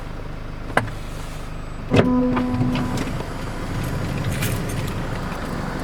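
Car interior sounds over a steady low hum: a sharp click, then about two seconds in a thump followed by a steady electronic tone lasting about a second, then a rougher rumble.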